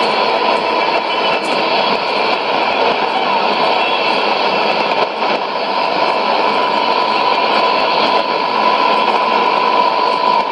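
Shortwave radio static and hiss from a Sony ICF-2001D receiver on 9975 kHz, with a steady whistle running through it; the broadcast is buried under the noise.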